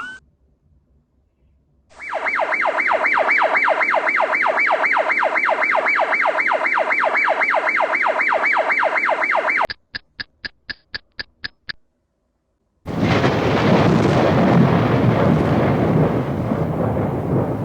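Earthquake early warning alarm: a fast warbling tone repeating about five times a second for several seconds, then a quick run of short beeps. After a brief silence comes a loud rushing noise lasting about five seconds.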